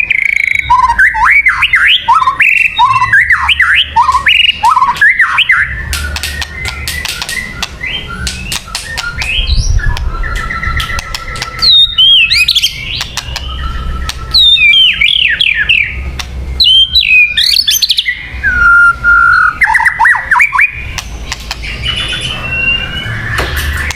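White-rumped shama singing a long, varied song of loud whistled phrases that glide up and down in pitch, broken by sharp clicking notes between the phrases.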